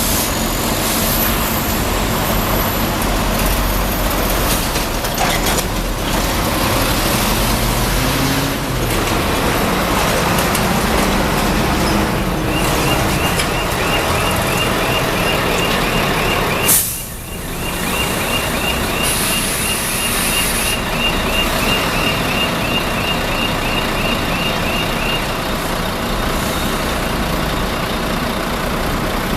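Heavy truck running steadily. A fast, high-pitched beeping runs for about twelve seconds in the middle, and a single sharp burst comes about seventeen seconds in.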